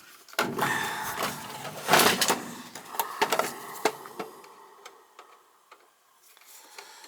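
Rustling with many small clicks and knocks of hands working wires and tools at close range, dying down after about four seconds.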